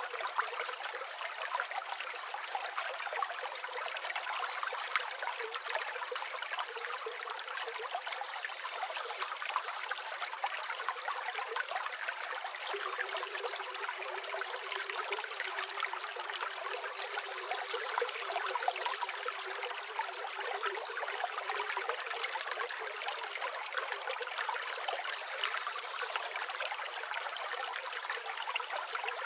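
River water flowing and babbling steadily over stones, a continuous splashing rush with no low rumble.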